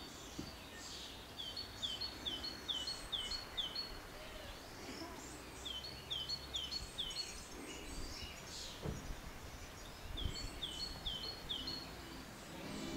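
Songbirds singing outdoors: one bird repeats a run of five or six short, high, falling whistled notes three times, with other birds twittering behind.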